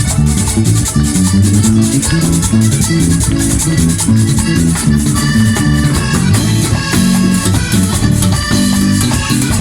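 Live Latin band music in an instrumental passage: a steady rattling percussion rhythm over a moving bass line and sustained melody notes, with no singing.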